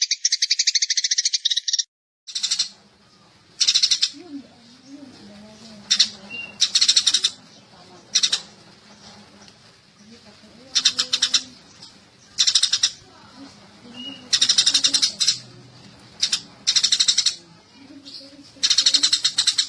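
Sparrow calls, a continuous high chattering that cuts off suddenly about two seconds in. After that come short bursts of rapid chirps, repeating every second or two.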